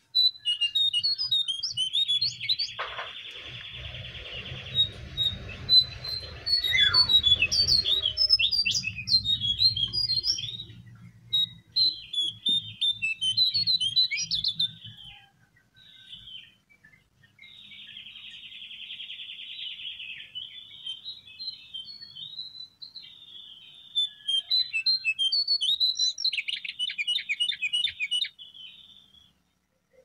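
Small songbirds chirping and trilling at high pitch, several calls overlapping, with buzzy rapid trills a few seconds in, midway and near the end. A low hum sits under the first half.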